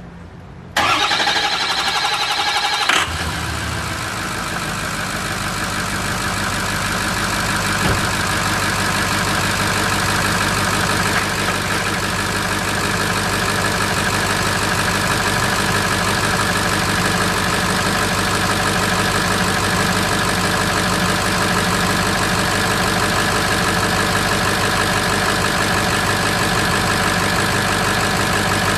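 Engine being cranked by its starter for about two seconds, then catching about three seconds in and settling into a steady idle. This is its first start after being reassembled with new head studs.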